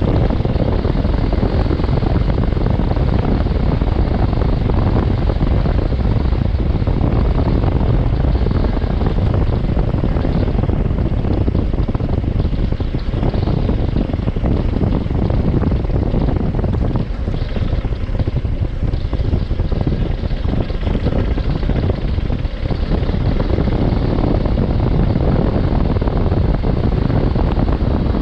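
Adventure motorcycle on the move: heavy wind buffeting on the microphone over the engine and road noise, loud and steady.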